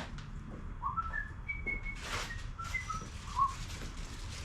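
A man whistling a tune: a run of short notes stepping up and down in pitch, with faint knocks in the background.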